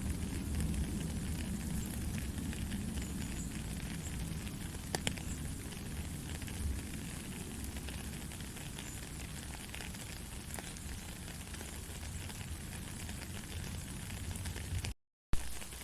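Gentle rain falling steadily: an even hiss with a low rumble and scattered sharp drop ticks. Near the end the sound cuts out completely for about a third of a second, then comes back with a loud click.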